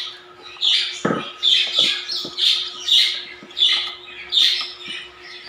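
African lovebird chirping, a series of short high chirps about two a second, with a few light knocks about a second in.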